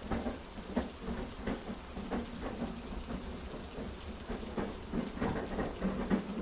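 Steady heavy rain with a low rumble beneath it and soft, unevenly spaced knocks running through it.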